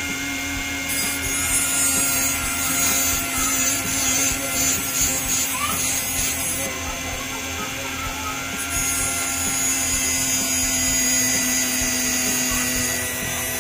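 Handheld rotary tool with a small abrasive cut-off disc running at a steady high whine while grinding into steel wire to cut a fishing-hook barb, the grinding hiss rising and falling as the disc bites the metal.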